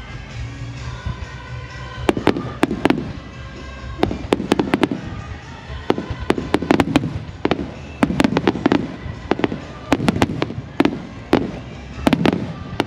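Fireworks bursting in quick clusters of sharp bangs, each with a low rumbling echo, starting about two seconds in.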